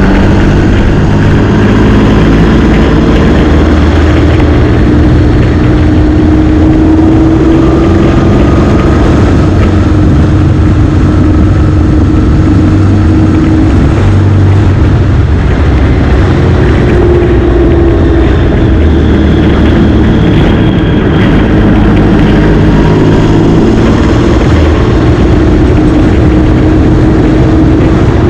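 Motorcycle engine running under way. Its pitch slowly rises and falls as the revs change.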